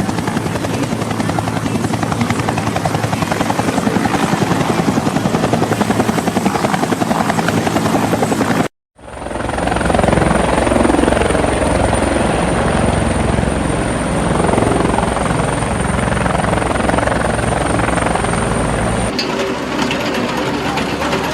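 Helicopter rotor chopping fast over the engine noise. It cuts out abruptly for a moment about nine seconds in, comes back with a thin high steady whine on top, and changes character again near the end.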